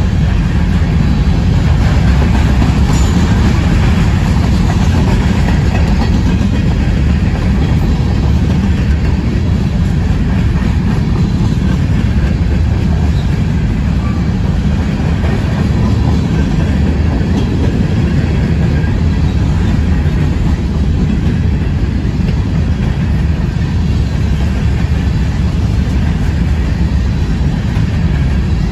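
Covered hopper cars of a CSX grain train rolling past, their steel wheels running on the rails in a steady low rumble.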